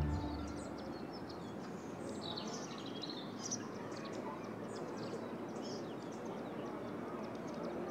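Small birds chirping and calling in short, scattered notes over a steady outdoor background hiss.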